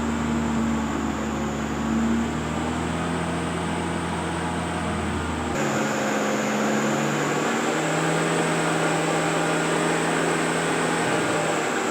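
Turbocharged Toyota 3S-GE Beams inline-four running steadily on a chassis dyno, a constant engine drone. It shifts abruptly to a different, steady note about five and a half seconds in.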